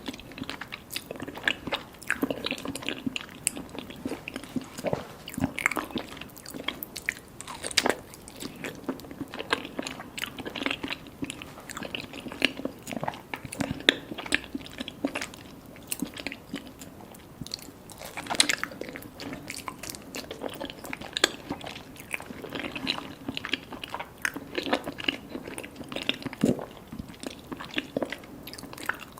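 Close-miked eating sounds of mango mochi with popping mango boba being bitten and chewed: a continuous run of irregular wet clicks, smacks and squishes.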